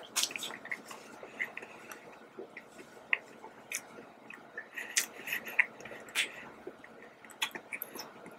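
A person chewing a mouthful of soft doughnut close to the microphone, with irregular wet smacks and clicks of the mouth, the loudest about five and six seconds in.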